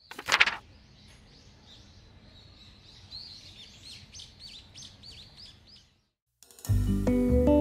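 A brief burst of noise, then small birds chirping faintly in a quick run of short, falling notes. Acoustic guitar music starts near the end and is louder than the birds.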